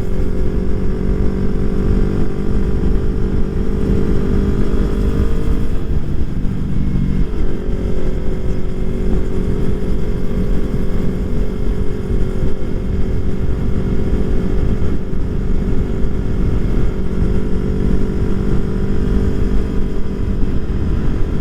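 2020 Yamaha R3's parallel-twin engine with full exhaust running steadily at cruising speed, under heavy wind noise on the rider's microphone. The engine note breaks briefly about six seconds in and then settles back to a steady pitch.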